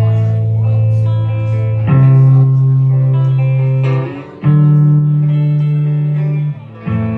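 Live band playing an instrumental intro: held guitar chords over deep bass notes, the chord changing about every two seconds, with short breaks between some of the chords.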